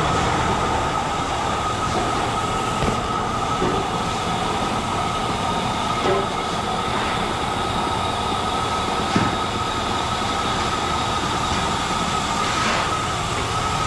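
Grain auger running and conveying hemp seed: a steady mechanical rush with a constant high-pitched squeal on top and a few light knocks.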